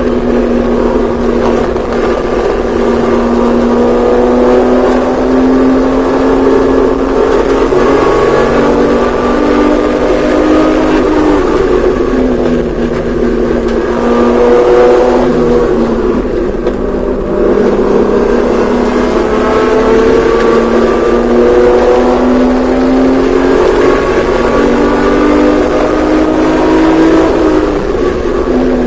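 Porsche 911SC's air-cooled flat-six running hard at racing speed. Its pitch climbs under acceleration in several stretches, drops back briefly about halfway through as the car slows for a corner, then climbs again.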